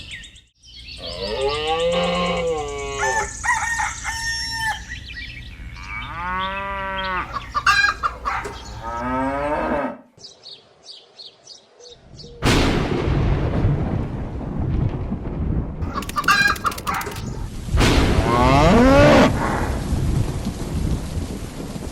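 Roosters crowing several times in long rising-and-falling calls. About halfway through, a loud, steady rumbling noise starts and carries on under a further crow.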